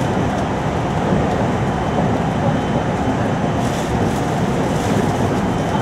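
Steady running noise inside a series 521 electric multiple unit, recorded in the middle of a motor car: an even rumble of the wheels on the rails as the train runs between stations.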